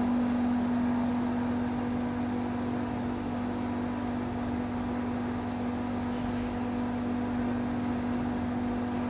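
APC1200 bingsu machine running with a steady, unchanging electric hum.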